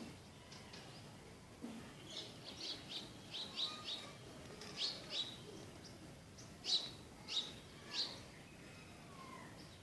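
Small birds chirping: a run of short, sharp chirps starting about two seconds in, the loudest near seven seconds.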